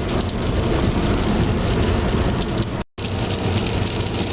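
Car tyre and road noise while driving on old, patched asphalt with small potholes: a steady rumbling hiss. It cuts out for a moment about three seconds in, then carries on.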